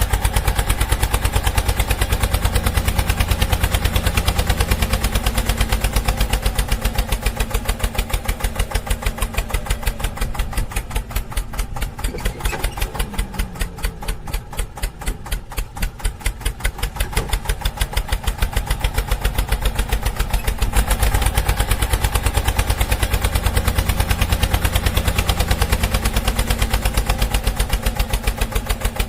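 An engine running at idle with a fast, even chugging. It eases off somewhat in the middle and comes back up again towards the end.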